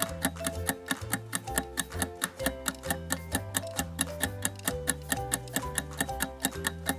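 Steady clock-like ticking, about four ticks a second, over light background music with a bass line: a quiz countdown timer running while the viewer guesses.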